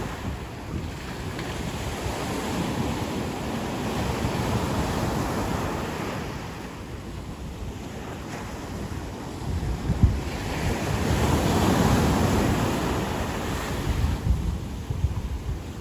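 Ocean surf on a beach: waves breaking and washing up the shore in a continuous rushing hiss that swells and ebbs, loudest about ten to twelve seconds in.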